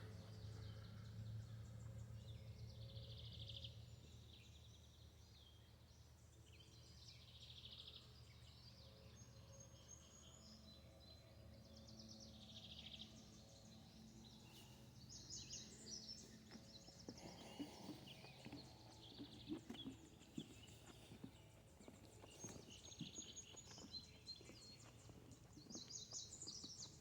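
Quiet outdoor ambience with faint, scattered bird calls. In the second half come soft, irregular knocks, like footsteps on a wooden boardwalk.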